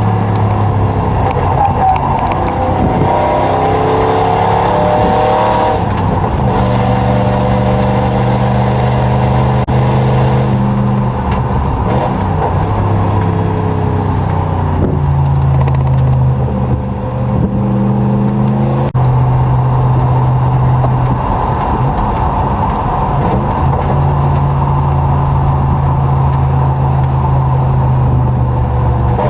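1997 Ford F-150's 4.6L Triton V8 exhaust, running through short equal-length headers and an aftermarket exhaust setup behind the stock catalytic converters. The engine note holds steady for a few seconds at a time, then steps to a new pitch, several times over.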